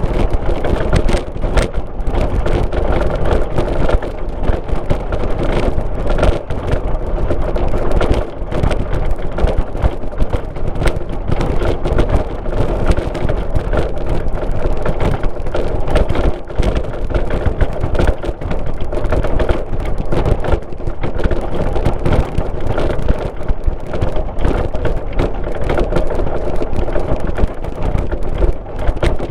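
A car being driven, heard from inside: steady engine and tyre road noise with frequent small knocks and rattles from the car going over a rough surface.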